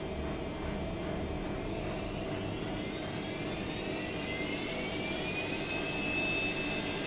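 Bosch washing machine running, its motor whine rising in pitch from about halfway through and levelling off near the end as the drum speeds up. This is the noise the owner presents as a fault.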